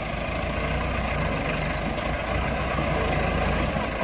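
Heavy diesel engine of farm machinery running steadily, with a deep low rumble and no change in speed.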